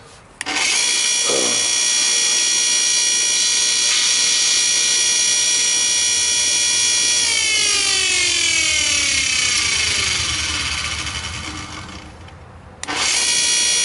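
Sears Craftsman 8-inch, 1-horsepower bench grinder switched on and running up to speed with a steady whine. It is switched off about seven seconds in and coasts down in falling pitch, then is switched on again near the end.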